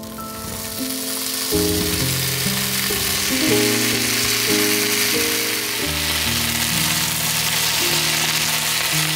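Food sizzling as it fries in oil in a pan; the sizzle sets in at the start and swells, then holds steady. Background music plays over it.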